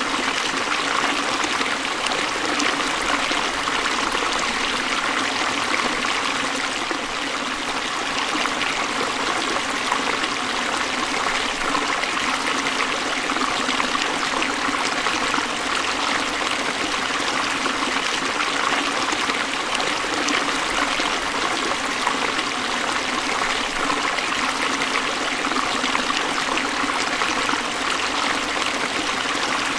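Forest stream flowing steadily over rocks, a continuous rush and trickle of water.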